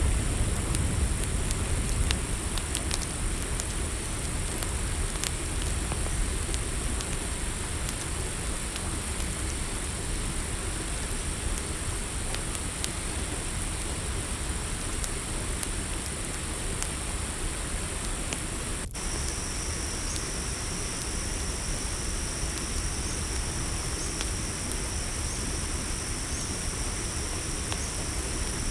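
Campfire crackling and rumbling under a steady, high-pitched chorus of night crickets. After a brief dropout about two-thirds of the way through, a second, lower insect trill joins the chorus.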